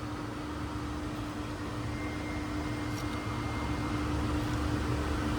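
Steady machinery hum with a constant low tone, getting slightly louder: water pumps and equipment around a heat pump idling in sleeping mode, with its compressor stopped and waiting to restart.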